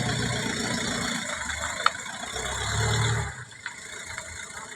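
Low engine rumble of a motor vehicle going by, swelling twice, with one sharp click a little under two seconds in.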